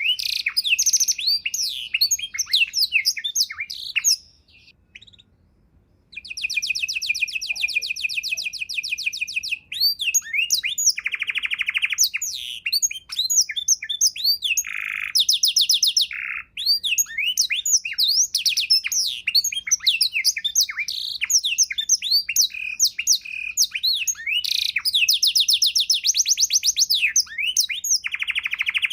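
Domestic canary singing a long, varied song of fast trills and quick rising and falling whistles, with a short pause about four seconds in.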